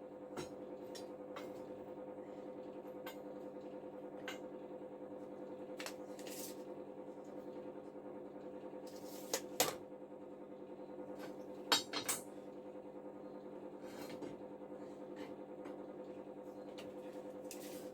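Scattered light metallic clinks and taps of metal hardware being handled, the loudest coming in quick pairs about ten and twelve seconds in, over a steady faint hum.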